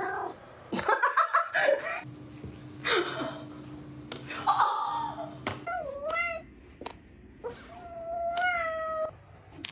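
Cats meowing: a few calls, the last a long drawn-out meow near the end.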